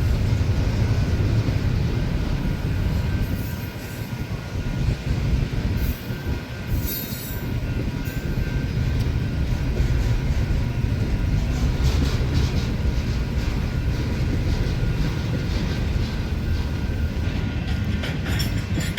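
A train rolling past with a steady low rumble from the cars and a thin, steady squeal from the wheels. Near the end comes a run of sharp clicks as wheels cross rail joints.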